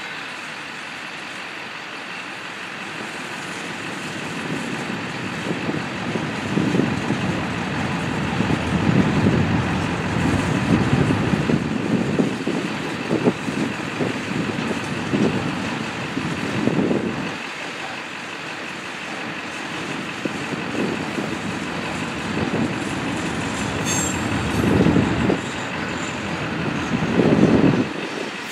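Freight cars of a long mixed freight train rolling past: a continuous rumble and rattle of steel wheels on rail that grows louder after a few seconds and swells and eases as the cars go by.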